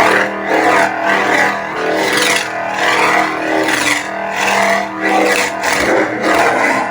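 Lightsaber sound font, Lord Blako's Nextor, on a custom saber: a steady, buzzing hum with swing sounds that swell and sweep in pitch roughly once a second as the blade is moved.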